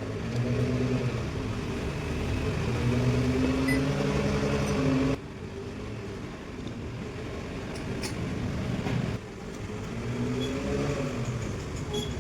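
Maruti Alto 800's three-cylinder petrol engine running and being revved. Its pitch climbs over the first few seconds, falls away suddenly about five seconds in, then climbs again near the end.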